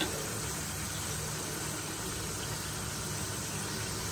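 Turmeric-coated potato slices shallow-frying in hot oil in a pan, a steady sizzle over a low steady hum.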